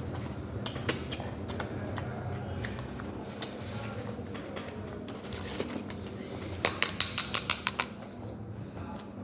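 Knife cutting food, with scattered sharp taps and, near the end, a quick run of about eight sharp knocks, over a steady low hum.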